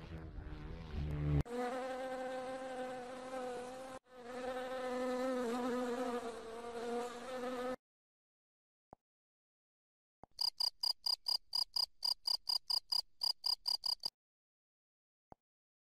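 Recorded insect sounds played one after another. First a flying insect buzzes in a steady drone that breaks off briefly and comes back. Then, after a pause, comes a fast pulsing chirp, about five pulses a second, typical of a cricket.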